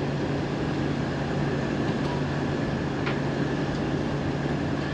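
A farm engine running steadily at constant speed, with a steady low hum and a couple of faint ticks.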